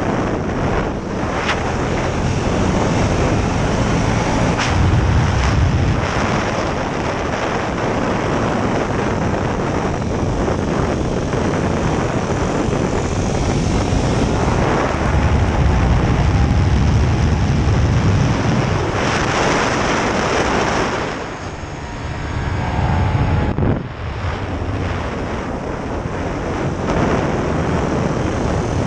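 KTM 1290 Super Duke R's V-twin engine running hard on track, heard from on board under heavy wind rush on the microphone. The engine note swells and eases with the throttle, dropping away briefly about three-quarters of the way through.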